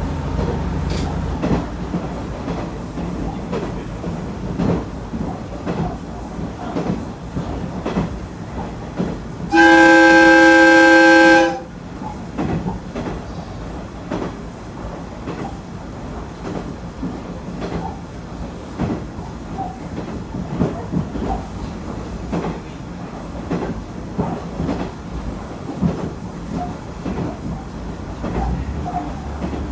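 KiHa 110 series diesel railcar running along the line, its wheels clicking over rail joints. One long, loud, steady horn blast lasts about two seconds, about ten seconds in.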